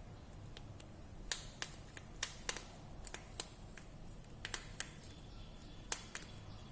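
About a dozen sharp, irregular clicks and taps of small hand tools against a phone's parts.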